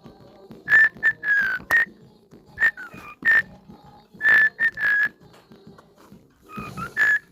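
Cockatiel singing: a run of short, clear whistled notes on much the same pitch, in quick groups of two or three with short pauses between, some notes sliding downward.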